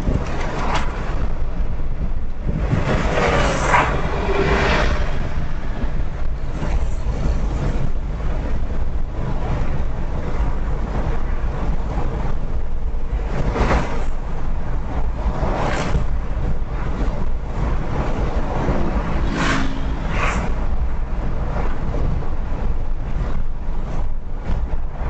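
Road and traffic noise recorded from a moving car: a steady low rumble of tyres and engine, with several vehicles swelling past in turn.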